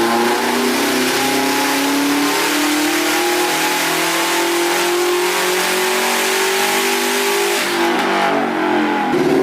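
Car engine under full throttle on a chassis dyno, its pitch climbing steadily through a long pull. Near the end the revs fall away as the throttle is lifted, then start rising again.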